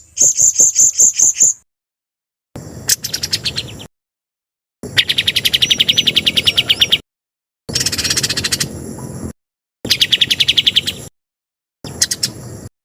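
Recorded songbird song: about six bursts of rapid, evenly repeated high chirps, each a second or two long, cut apart by dead-silent gaps as in an edited masteran training track.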